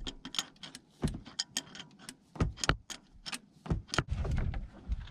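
Irregular sharp metallic clicks and taps as a fuel pressure gauge's hose fitting is handled and fitted onto the test port of a Ford 302 V8's fuel rail. A low rustling rumble comes in near the end.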